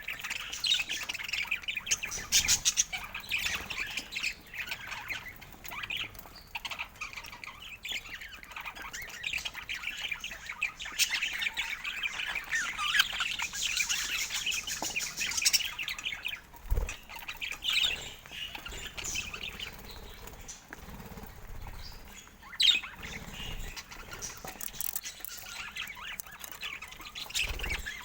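Budgerigars chirping and chattering, with a steady run of short warbles and squawks, scattered clicks and bursts of wing fluttering.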